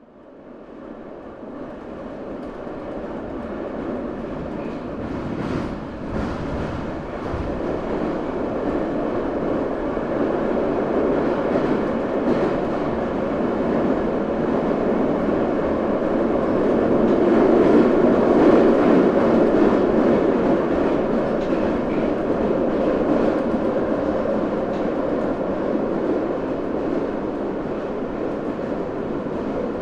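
Subway train running on the track, a steady rumble and rattle of wheels and cars that fades in from silence at the start, builds gradually and is loudest a little past the middle.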